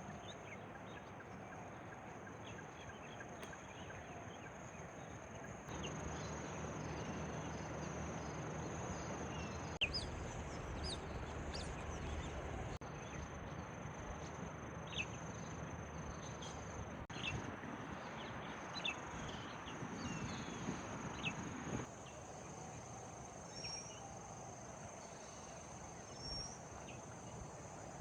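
Forest ambience: a steady high-pitched insect drone with scattered short bird chirps over a soft background hiss. The background changes abruptly twice.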